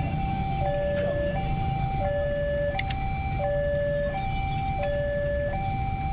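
Electronic warning alarm of an Indonesian railroad level crossing, sounding a steady two-tone pattern that alternates between a lower and a higher tone about every 0.7 seconds, which signals that a train is approaching. Low traffic rumble runs underneath.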